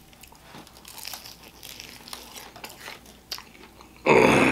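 Close-miked chewing of a crispy Korean fried chicken wing, with faint crackling crunches of the fried coating. About four seconds in comes a loud, closed-mouth "mmm" of enjoyment.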